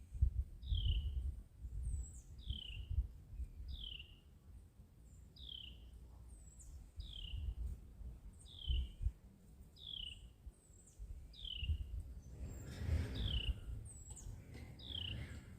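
A bird calling over and over, a short falling chirp roughly once a second, over a low uneven rumble.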